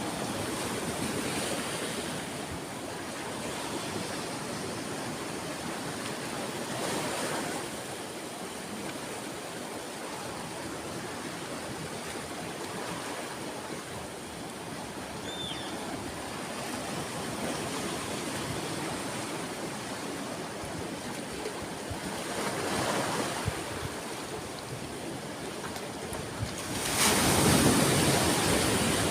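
Sea waves washing onto a shore: a steady surf hiss that swells as waves break, twice briefly and once more strongly near the end.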